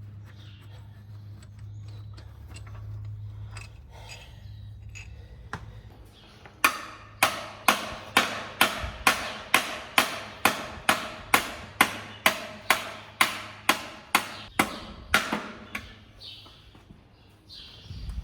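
Hammer striking metal in a steady run of about twenty blows, a little over two a second, starting about six seconds in and stopping near the end, with lighter scattered taps and clinks before it.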